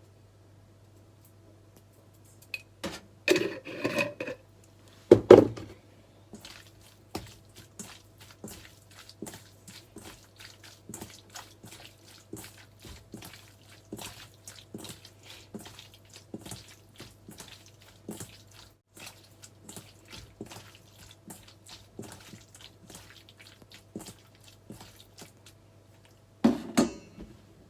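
Kitchen clatter of utensils and cookware, the loudest knock about five seconds in. After it comes a long run of light, irregular clicks, two or three a second, over a steady low hum, with more clatter near the end.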